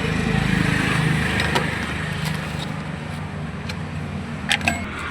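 A vehicle engine running steadily, a little louder in the first second or so, with two sharp metallic clicks close together near the end.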